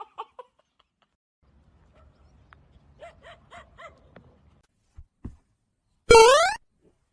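A dog giving four short, high calls in quick succession. Near the end comes a louder, half-second rising whistle-like tone.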